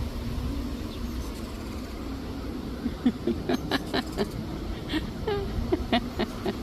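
Wind rumbling on the microphone, joined about three seconds in by a quick run of short chirping animal calls.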